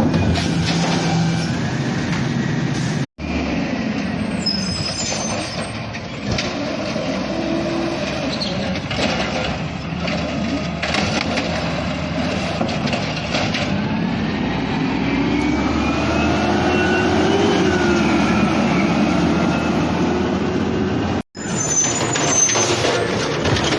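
Diesel garbage truck running at work, its engine note rising and falling as it works the street. The sound cuts out abruptly twice, about three seconds in and near the end.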